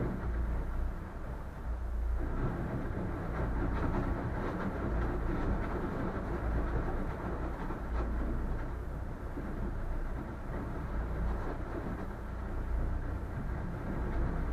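Boat under way through ice: a steady low engine rumble under a rough, grinding rush of hull noise that thickens about two seconds in, with a few faint knocks.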